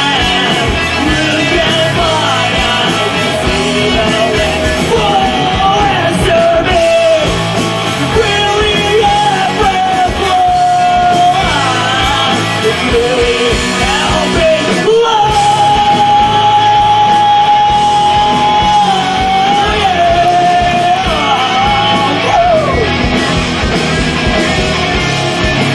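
Live rock band with a singer belting long, high held notes over guitars and drums; the longest note, held with vibrato, comes a little past halfway through.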